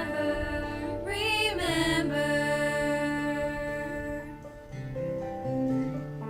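Vocal group singing a slow ballad over instrumental accompaniment: sustained chords and a steady bass line, with a wavering sung phrase about a second in.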